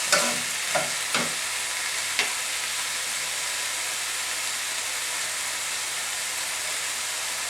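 Chicken pieces sizzling steadily in hot oil in a frying pan, with a few light knocks in the first couple of seconds.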